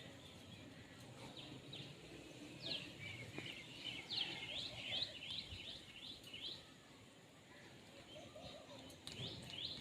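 Indian ringneck parakeet giving faint runs of quick, high chirps, several a second, starting about three seconds in and coming again near the end.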